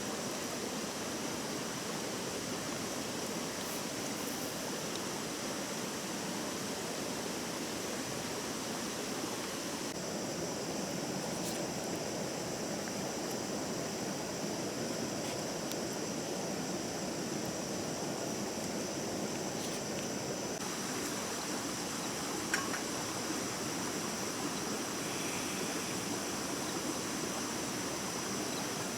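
Stream water running steadily, an even rushing, with a faint steady high tone over it.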